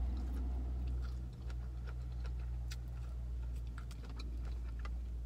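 Mouth sounds of chewing a bite of boneless chicken wing: soft, irregular wet clicks, over a steady low hum.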